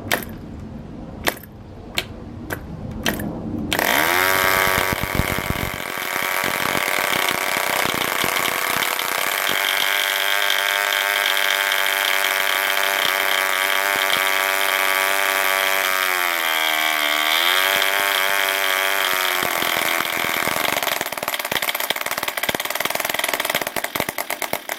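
Rebuilt 1950 German RGU 2.5 cc model diesel engine: a few sharp clicks, then it catches about four seconds in and runs with a steady high-pitched note. Its pitch sags briefly after about sixteen seconds, recovers, and the engine cuts off at the end. It was running in the wrong direction.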